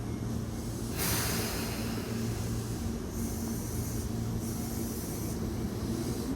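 Electric train standing at the platform, its equipment giving a steady low hum, with a sudden hiss of air starting about a second in.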